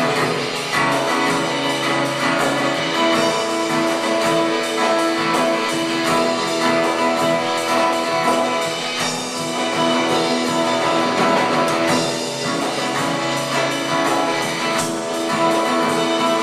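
Instrumental passage of a worship song with guitar to the fore and no singing; held chords ring on under the playing.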